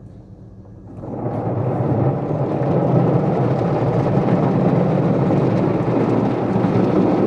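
Automatic car wash machinery starting up: a steady rushing noise that builds over about two seconds from a second in, then holds loud and even.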